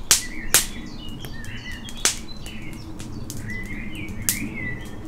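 Songbirds singing, a string of short warbling chirps, with several sharp cracks or snaps that are the loudest sounds, the strongest about half a second and two seconds in, over a steady low background.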